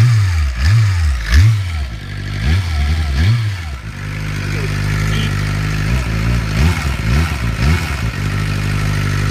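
A 2007 Suzuki GSX-R's inline-four engine idling and being blipped on the throttle. The revs rise and fall about five times in the first four seconds, then several quicker blips come between about six and eight seconds in, before the engine settles back to a steady idle.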